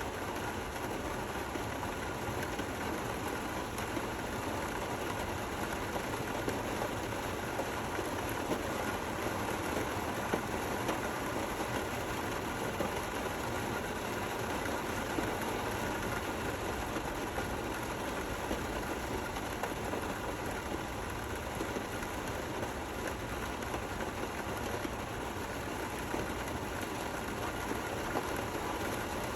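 Steady, gentle rain falling, an even continuous patter with occasional slightly louder drops.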